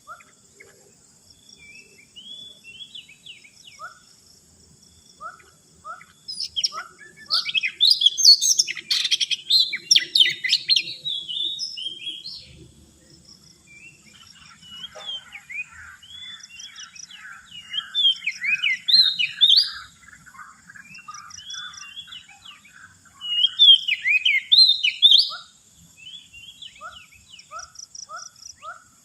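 Oriental magpie-robin (kacer) singing in loud bouts of rapid, varied whistled and scratchy notes. Short, evenly spaced lower calls come between the bouts, and a faint steady high hiss runs behind.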